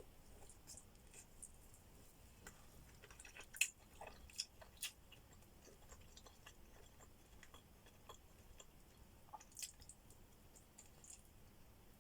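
Faint close-up chewing and mouth sounds of someone eating, with a few short sharp clicks, the loudest about three and a half seconds in.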